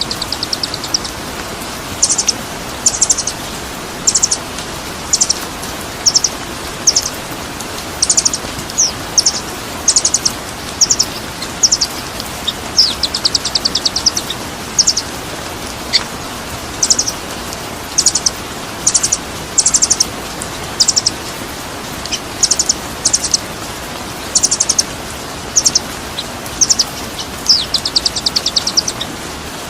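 A songbird repeating short, high, rapid chirping phrases, about one to two a second, over a steady hiss.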